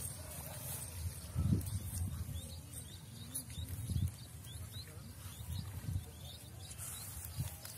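A small bird chirping a quick run of short rising notes about three to four seconds in, over a low rumble with thumps and faint voices.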